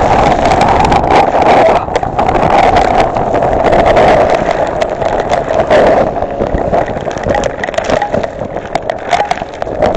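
Heavy rainstorm: rain and wind in a dense, loud rushing noise, swelling and easing in gusts, with many sharp patters of drops.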